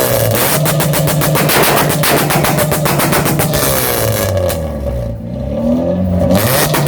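Car engine on a two-step launch limiter, letting off a rapid string of exhaust pops and bangs. About four and a half seconds in, the popping stops for roughly two seconds while the engine revs up, climbing in pitch, then the rapid popping comes back near the end.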